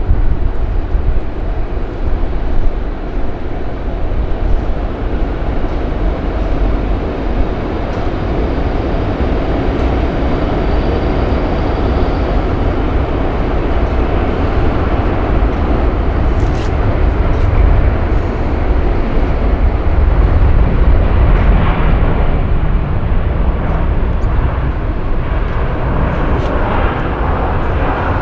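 Jet airliner's engines heard from close by during a take-off or landing, a loud continuous rumble that swells a little about two-thirds of the way through.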